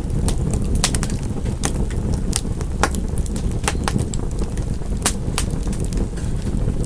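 Wood fire burning in a fireplace: a steady low roar of flames with irregular sharp crackles and pops, several a second.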